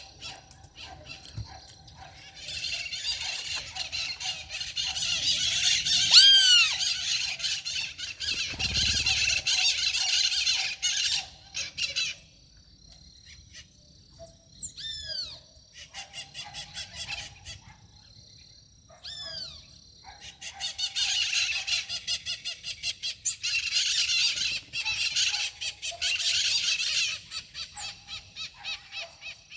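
Many birds calling and chattering together in two long, dense bouts, with a few clear down-slurred whistles between them.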